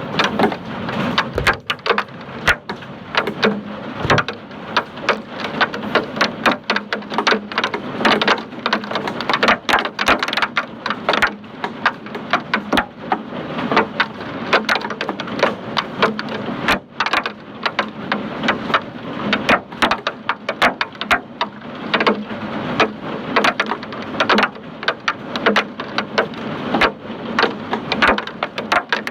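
Hailstones pelting down in a hailstorm: a dense, irregular clatter of countless sharp impacts over a steady hiss.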